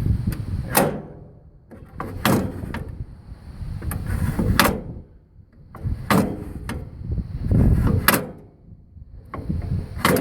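Shifter of a rear-engine riding mower's friction-disc drive worked repeatedly, moving the drive plate. About six shifts come roughly every two seconds, each a scraping rumble ending in a sharp clunk.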